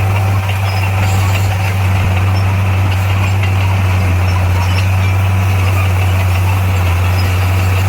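Heavy diesel engine of earthmoving equipment running steadily at a constant speed, a loud, unchanging low drone.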